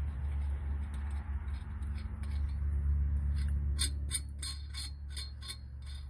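A quick run of light metallic clinks, about eight in two seconds, over a steady low rumble, as small metal hardware or tools are handled.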